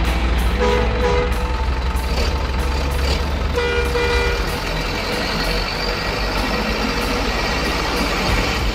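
Steady truck engine running, with two short horn-like toots: one about a second in and one about three and a half seconds in.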